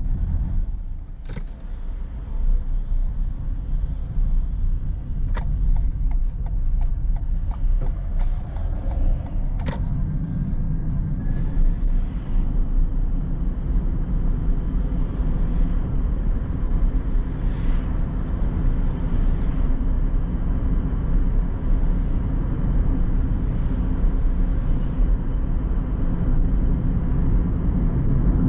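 A car driving, its steady low road and engine rumble continuous throughout, with a few short clicks or knocks in the first ten seconds.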